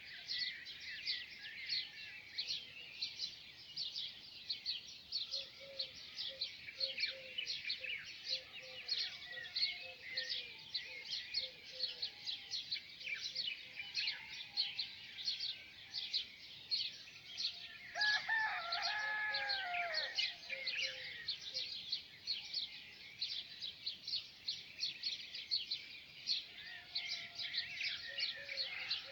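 A dawn chorus of many small birds chirping rapidly and continuously. About two-thirds of the way through, a rooster crows once for about two seconds.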